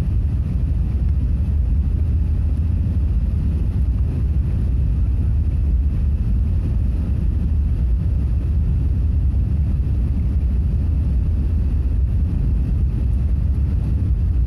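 Steady low rumble of an Airbus A380's engines and airflow heard from inside the passenger cabin, unchanging throughout.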